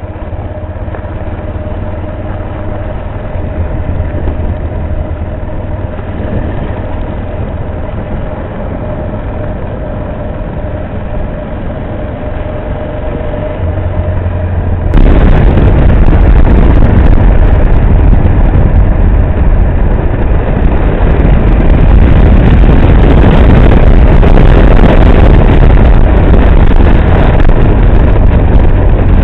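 Motorcycle engine running. About halfway through, the sound abruptly turns much louder and rougher, with engine and rushing noise together.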